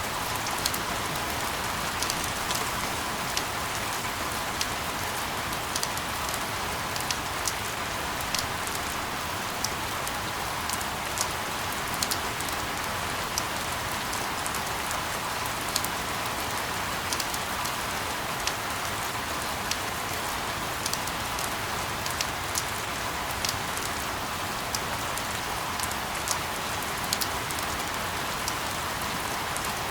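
Steady rain falling on a surface: an even hiss with frequent scattered sharp drop ticks, used as a continuous sleep sound.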